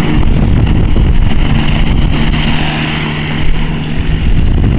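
Microlight aircraft engine running steadily, with strong wind buffeting the microphone.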